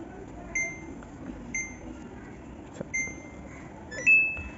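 Samsung washing machine control panel beeping as its buttons are pressed: three short beeps about a second apart, a brief click, then a longer, higher-pitched beep near the end.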